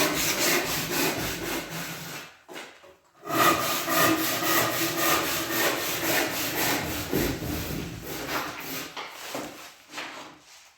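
Hand saw cutting with quick back-and-forth strokes, stopping for about a second roughly two seconds in, then sawing on.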